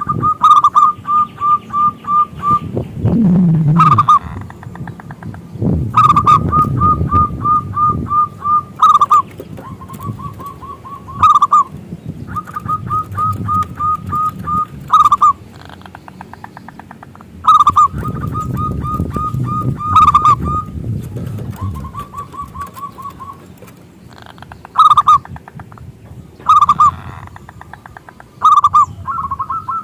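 Zebra doves (perkutut) calling: repeated runs of quick staccato notes, each run closing with a louder accented note, every two to three seconds. Lower, rougher sounds come and go underneath.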